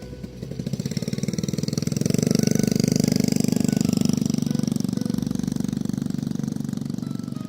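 An engine running with a fast, even pulse; it grows louder about two seconds in, then slowly fades.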